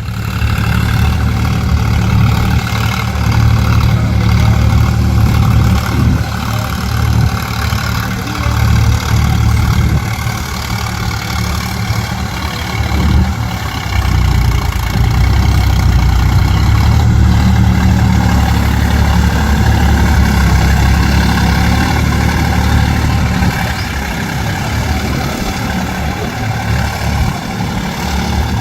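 Sonalika DI 47 4WD tractor's diesel engine running with a low, steady note that dips in level a couple of times, as the tractor works through mud.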